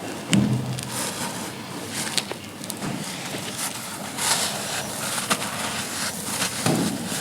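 Dry, grainy charcoal shapes being crushed and crumbled: a dense run of crisp crackles and crunches, with heavier thuds about a third of a second in and near the end.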